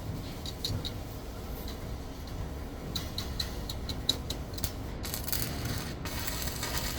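A run of light, sharp clicks at an uneven pace over a low steady rumble, bunched at the start and again through the middle, followed by a short hiss near the end.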